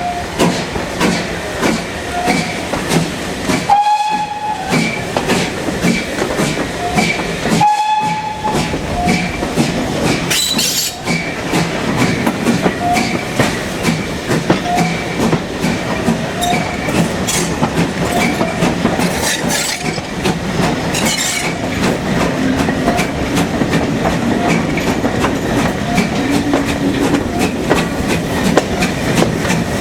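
Steam-hauled heritage train in motion: a steady rumble with wheels clicking over the rail joints. Two brief high tones sound within the first eight seconds.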